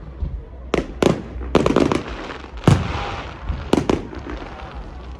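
Fireworks going off: a run of sharp bangs, some in quick pairs, the loudest about halfway through, with crackling in between.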